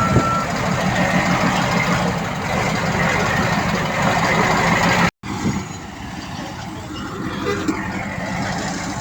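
Heavy diesel earthmoving machinery running steadily, with the last reversing-alarm beep just after the start. The sound cuts out abruptly about five seconds in and resumes quieter.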